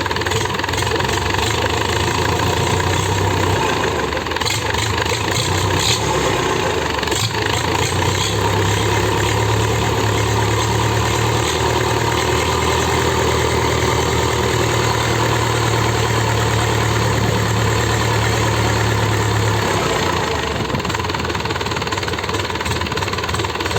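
Freshly rebuilt Samsung engine of a 3-ton forklift running, firing smoothly just after its first start. It speeds up a little about 4 and 8 seconds in, holds steady, then settles back to a lower speed about 20 seconds in.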